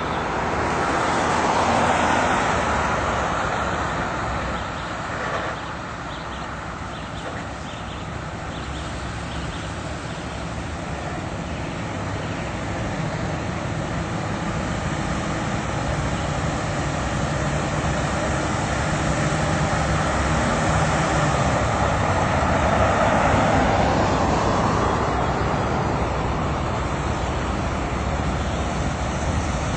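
Engines of antique tractors running as they drive past one after another, swelling as each comes close, loudest about two seconds in and again around twenty-three seconds.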